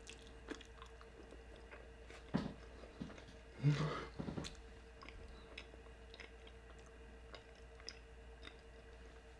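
Close-miked chewing of a soft bean and cheese burrito: wet mouth clicks and smacks, with a louder bout of chewing about four seconds in.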